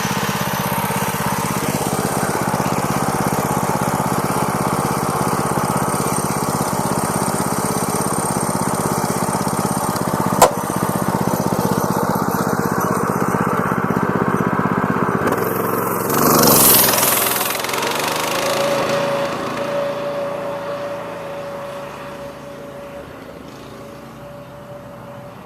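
Massimoto Warrior 200 mini bike's small single-cylinder engine running steadily, with a single sharp click about ten seconds in. About two-thirds of the way through a brief loud rush of noise passes, then the engine sound fades gradually.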